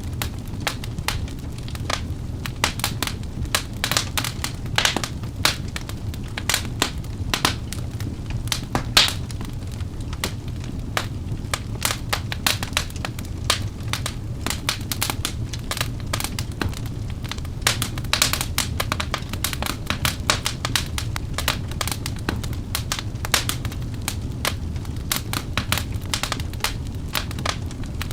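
Wood fire burning in a fireplace: dense, irregular crackles and sharp pops over a steady low rumble of the flames. One pop stands out about nine seconds in.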